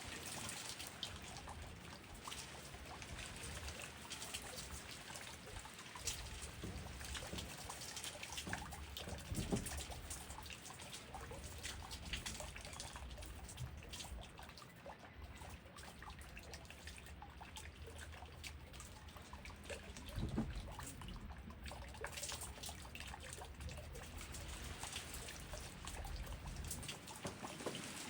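Rain falling steadily, with many separate close drops and drips, and a few louder drops about ten and twenty seconds in.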